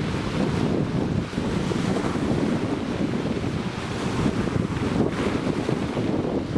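Black Sea surf breaking and washing on the beach, a steady rushing noise, with wind buffeting the microphone.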